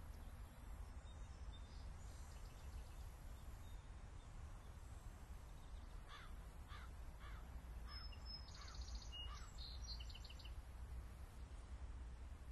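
Faint birds calling over a low steady rumble: about halfway through comes a run of roughly seven short calls, each falling in pitch, followed by a few higher chirps.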